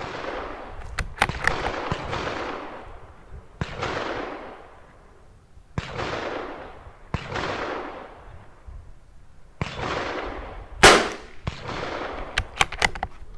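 Rimfire rifle shots: about 11 seconds in, a sharp, loud crack from the Tikka T1x .22 LR firing RWS R50 SC match ammunition, and about a second later a run of quick metallic clicks as the bolt is worked for the next round. Between them, softer shots with echoing tails come from other rifles on the range, one every second or two.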